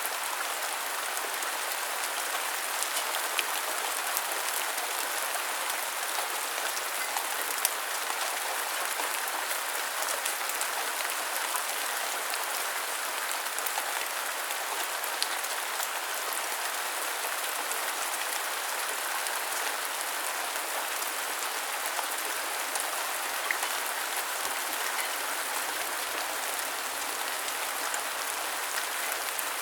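Steady rain falling on a surface: an even hiss with scattered sharp drop ticks, a few of them louder.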